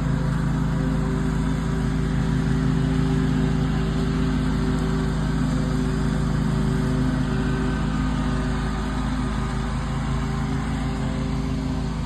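Bad Boy lawn mower's engine running steadily while mowing, easing a little in level about nine seconds in.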